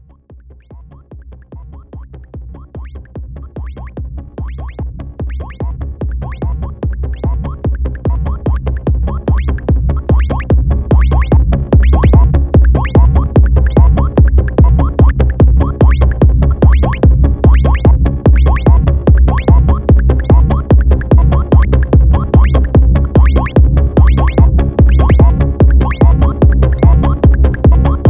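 Electronic music from an Elektron Model:Cycles groovebox and a Moog synthesizer: a fast, even drum-machine beat over deep bass. It fades in over the first twelve seconds or so, then holds at full level.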